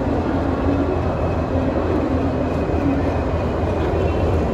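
Steady low rumble and hum of trains on a railway platform.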